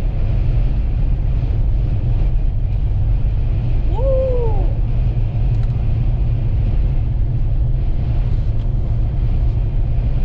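Steady low rumble of a vehicle driving, heard from inside the cabin, with a short whooping shout about four seconds in.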